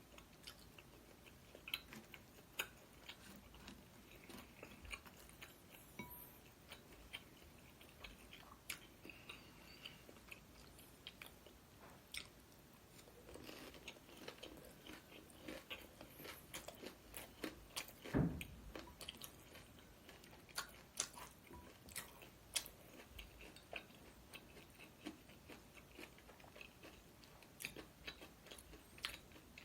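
Close-miked chewing and biting of Korean street food, a scatter of small wet mouth clicks and crunches. One louder thud comes about two-thirds of the way in.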